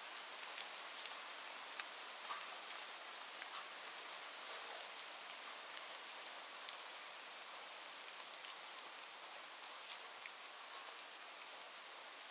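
Steady rain falling: an even hiss with many scattered sharp ticks of individual drops hitting a surface.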